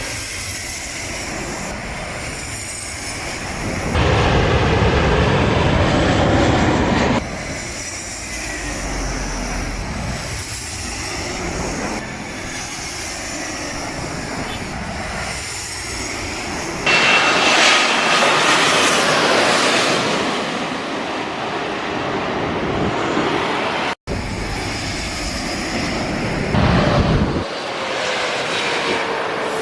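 Airliner jet engines: a steady rush with faint engine whines gliding in pitch, heard in several short spliced clips, so the level jumps suddenly where one clip ends and the next begins. There is a brief dropout a little past three-quarters of the way through.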